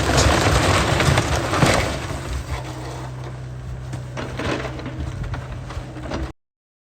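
John Deere excavator demolishing a house: wood and debris cracking, breaking and crashing over a steady engine drone. The crashing is loudest in the first two seconds, then eases, and the sound cuts off abruptly near the end.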